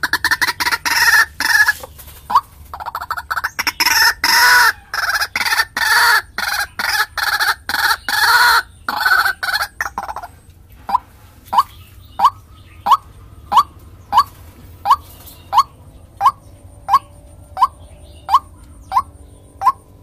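White-breasted waterhen (ruak-ruak) calling on a lure recording. First a run of loud, harsh croaking calls, then, about halfway through, the bird settles into a steady series of short rising notes, about one and a half a second.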